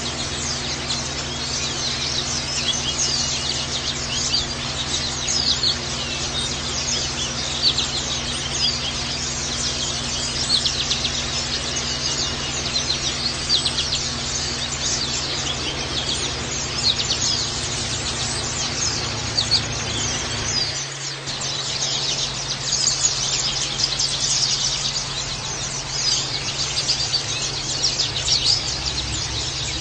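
Many white-eyes (pleci) twittering in rapid high chirps over a steady hiss of running water. This is a water-therapy sound used to stimulate caged white-eyes.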